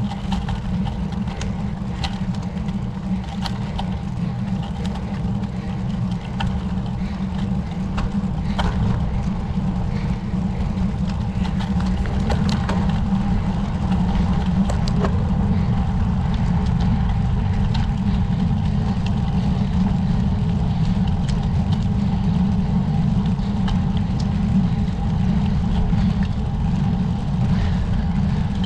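Steady low rumble of wind and road noise on the microphone of a camera riding along on a road bicycle during a climb, with scattered light ticks; it grows a little louder about ten seconds in.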